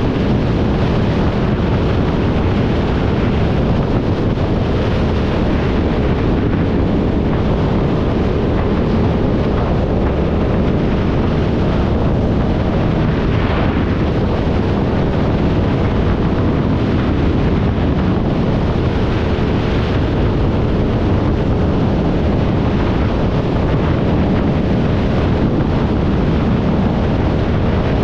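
Wind buffeting the microphone over a motorcycle engine running steadily while riding.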